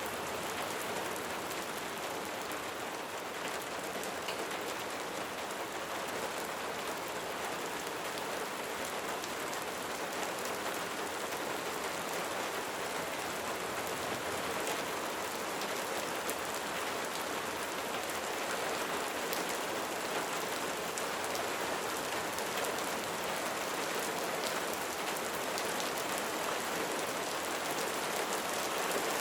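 Light rain falling steadily, a continuous soft hiss of raindrops with fine scattered pattering on surfaces.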